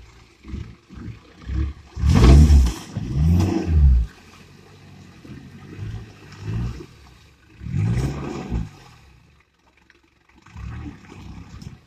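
Off-road 4x4's engine revving up and down in repeated bursts while wading through deep water, loudest about two to four seconds in and again near the eighth second.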